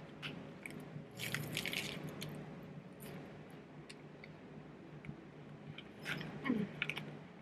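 A person chewing a flaky pastry up close: small wet mouth clicks and crackles, with a denser burst of crunching about a second in and another flurry near the end.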